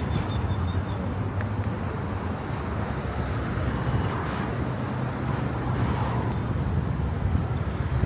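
Steady road traffic: a continuous low engine hum under a wash of passing vehicles.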